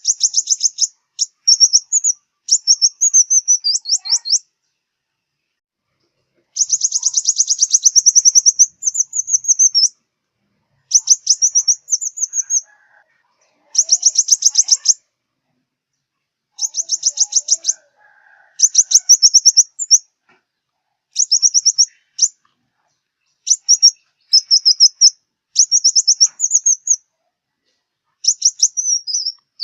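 Sunbird song: high, rapid twittering trills in bursts of one to two seconds, repeated with short pauses between.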